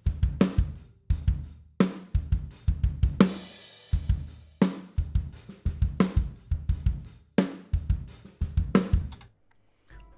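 Acoustic drum kit playing a groove of kick, snare and hi-hat, with a cymbal crash a little over three seconds in. It is heard through the close microphones blended with a room floor microphone, and the playing stops about a second before the end.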